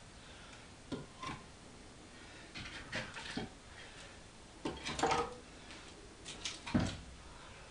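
Firewood logs knocking and clattering as they are stacked one by one into a fireplace firebox: irregular wooden knocks, the loudest near the middle and near the end.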